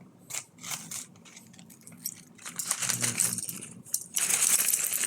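Small plastic LEGO pieces clicking and clattering as they are sorted out of an opened parts bag. About four seconds in comes a louder, continuous rattle of pieces and crinkling bag plastic.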